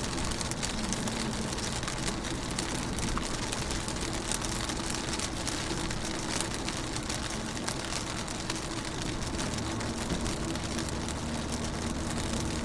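Rain falling on a car's windows and body: a steady hiss dotted with many small drop ticks, over a faint low steady hum.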